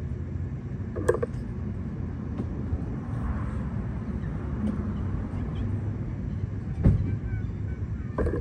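Steady low rumble of vehicle noise, with a sharp click about a second in and a louder knock near the seven-second mark.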